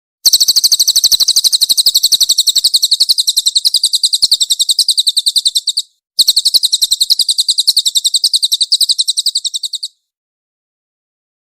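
Cililin bird singing in two long, rapid, high-pitched trills of tightly packed notes. The first lasts about five and a half seconds; a brief break comes near six seconds, and the second trill stops about ten seconds in.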